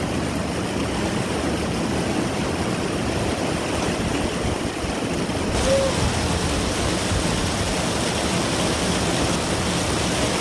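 Heavy rain falling: a steady, even rushing hiss, with one brief tone about halfway through.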